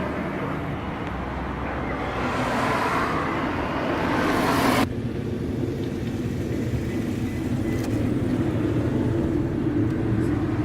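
Passing road traffic: broad vehicle noise swells up, then cuts off abruptly a little under five seconds in, leaving a steadier low rumble.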